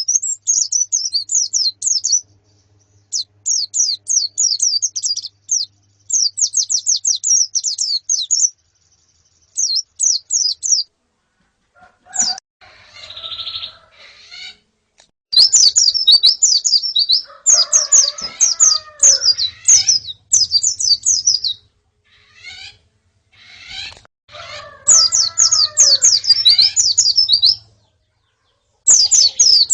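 White-eyes (pleci), a female and a flock, chirping in rapid high trills that come in bursts of a second or two with short pauses between. From about twelve seconds in, lower, curving calls join some of the bursts.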